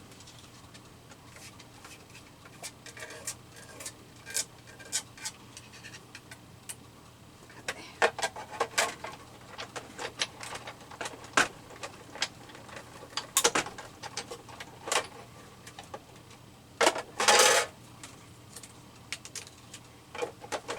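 Scattered light clicks and knocks from handling a metal cutting die, plates and paper while die cutting a paper circle, with a louder, brief scraping rustle near the end.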